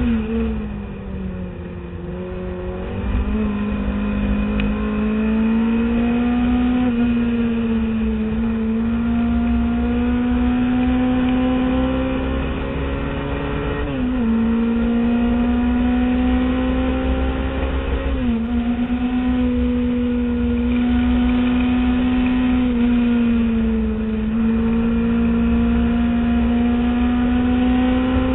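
Classic Mini Cooper race car's four-cylinder engine under hard acceleration, heard from inside the car. The revs sag briefly at first, then climb steadily. The pitch drops sharply twice, about halfway through and again a few seconds later, as the driver shifts up. There is a brief lift near the end.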